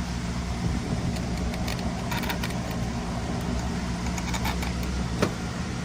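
Small steel bolts clinking as they are handled and started by hand into a transmission's valve body, several light metallic clicks over a steady low hum.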